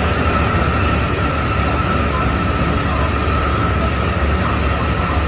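Keikyu 600 series train at speed, heard from inside the car: a steady high whine from its Mitsubishi GTO-inverter-driven traction motors over a continuous low rumble of wheels on rail.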